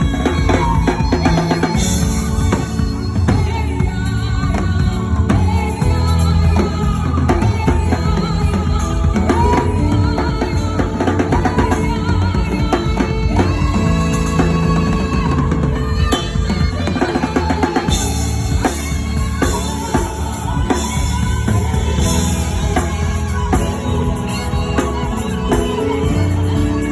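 Live gospel praise music: voices singing over a drum kit playing a steady beat, with a full band underneath.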